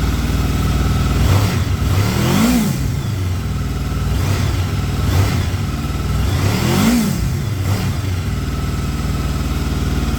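Honda VFR800's V4 engine idling as it warms up after a cold start, blipped twice: the revs rise and fall about two and a half seconds in and again near seven seconds.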